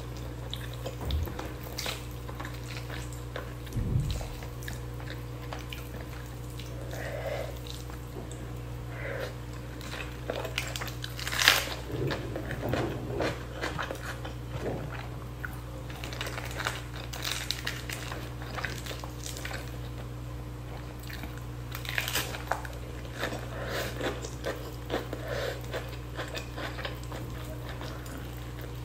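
Close-miked eating of spicy chicken and rice by hand: chewing and lip smacking, with many short wet clicks from the mouth and fingers, the sharpest about eleven seconds in. A steady low hum sits underneath.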